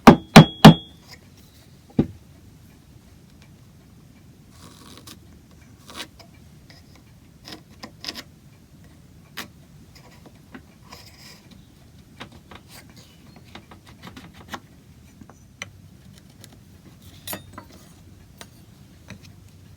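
Three sharp knocks on wood in quick succession, then a single knock about two seconds in, followed by scattered light clicks and taps of wood and tools being handled at the bench.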